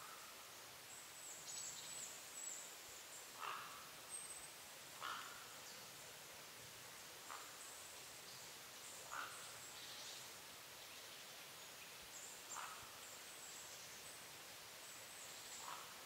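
Faint small-bird calls over quiet outdoor hiss: half a dozen short chirps spaced one to three seconds apart, with thin, very high-pitched twitters in between.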